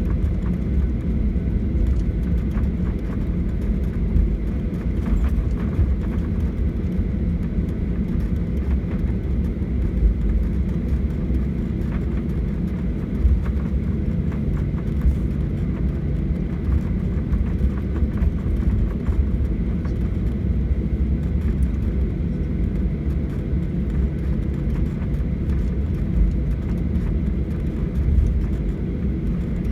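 Steady low rumble inside a Boeing 737-800 cabin in flight: the CFM56 jet engines and rushing airflow, with faint clicks and rattles scattered through it.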